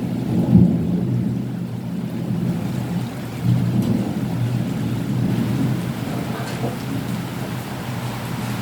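Steady rain falling while thunder rumbles low, swelling about half a second in and again about three and a half seconds in.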